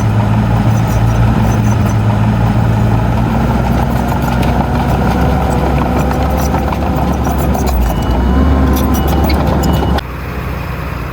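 Heavy diesel engine of earthmoving machinery running steadily under a strong low hum, with scattered light clinks. The sound drops suddenly to a quieter engine about ten seconds in.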